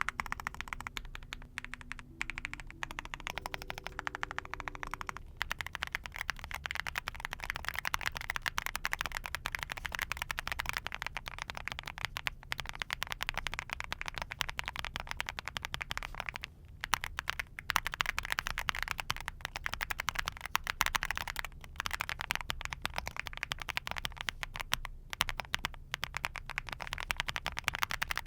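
Fast, continuous typing on a full-aluminium custom mechanical keyboard fitted with Monstargear Cupid linear switches: a dense run of keystroke clacks with two brief pauses.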